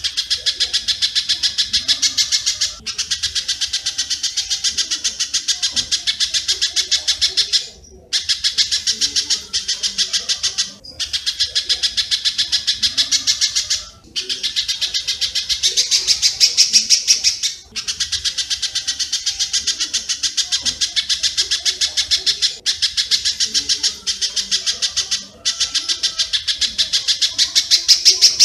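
Recorded spiderhunter and swiftlet calls mixed on a bird-training track: rapid series of sharp, high chips, about seven a second, in phrases of a few seconds broken by short pauses.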